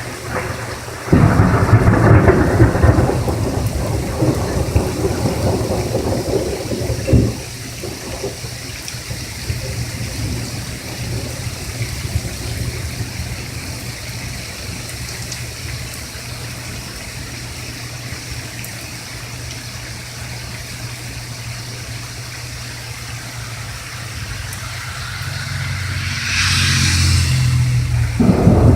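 A thunderclap breaks about a second in and rumbles for about six seconds before cutting off, over steady rain. The rain hiss swells near the end, and another low thunder rumble starts just before the close.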